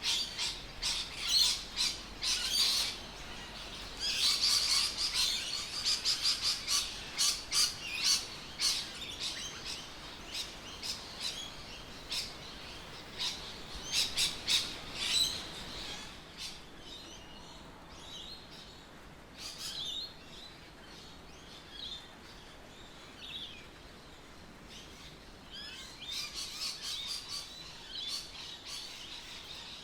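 Several birds chirping and singing in quick, overlapping calls, busiest in the first half, thinning out about halfway through and picking up again near the end.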